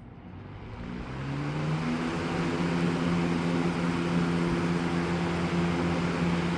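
A 1993–94 Galaxy (Lasco) 3723 20-inch box fan with a Marco motor, switched on at high speed, spinning up. Over the first two seconds the motor hum rises in pitch and the rush of air grows louder. It then runs steadily on high.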